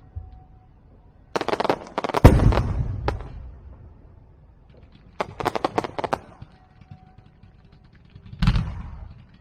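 Aerial fireworks shells bursting: a volley of rapid sharp cracks about a second and a half in, another about five seconds in, and a single loud bang near the end, each fading out in an echoing tail.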